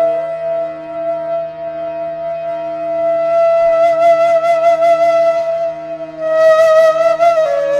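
Background music: a flute holding one long note with a slight waver over a steady low drone, stepping down to a lower note near the end.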